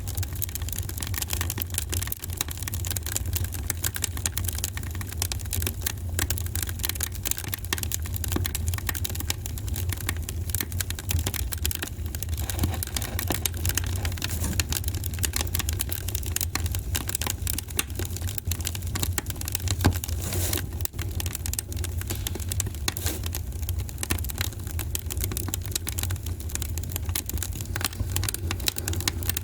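Wood fire crackling in a fireplace: dense, irregular pops and snaps over a steady low rumble, with one louder pop about two-thirds of the way through.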